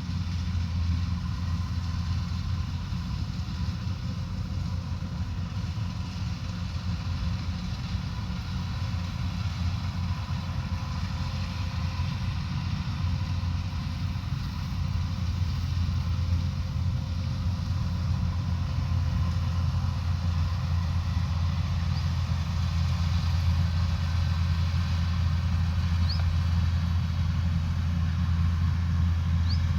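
Combine harvester engine running steadily, a constant low drone with a faint steady whine above it, growing a little louder about halfway through.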